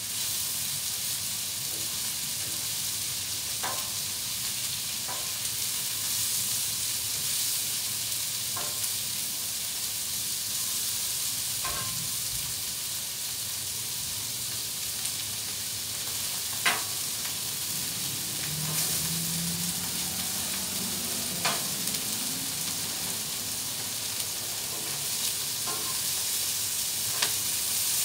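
Chopped bacon, chorizo, chicken and vegetables sizzling steadily on a propane flat-top griddle. A metal spatula clicks against the steel plate now and then as the food is turned.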